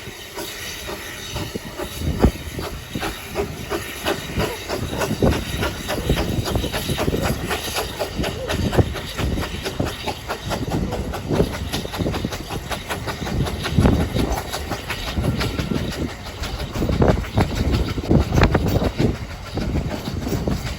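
A narrow-gauge Ffestiniog Railway train running: a steady rumble with fast, irregular clicking and clattering of wheels over the rail joints.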